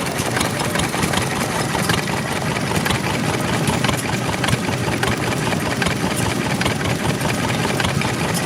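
Ceres Type M1A stationary engine running steadily.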